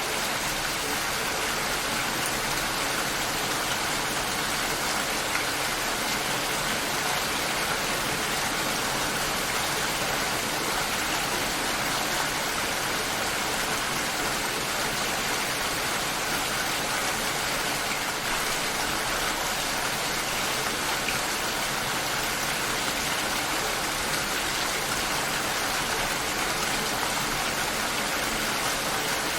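Steady rain shower falling and pattering on surfaces, an even hiss with no changes.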